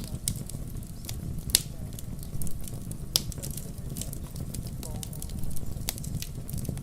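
Fireplace crackling in a fire-and-rain ambience: sharp single pops every second or two over a steady low rumble.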